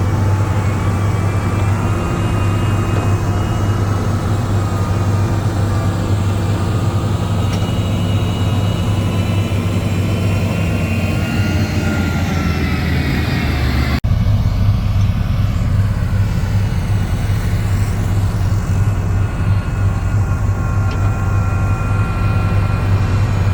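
Heavy diesel earthmoving machine engine running steadily with a deep drone. The sound changes abruptly about halfway through to a similar engine sound.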